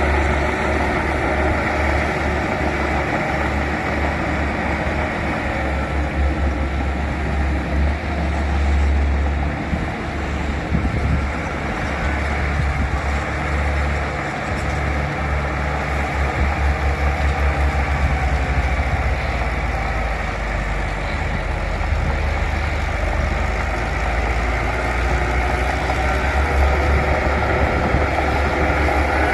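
Bulldozer's diesel engine running steadily with a deep, continuous rumble.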